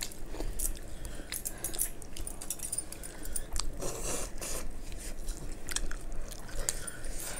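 Close-up eating by hand: chewing and lip-smacking with irregular short clicks, crunchy bites and wet squishing of saucy food, and a longer noisy chew about four seconds in.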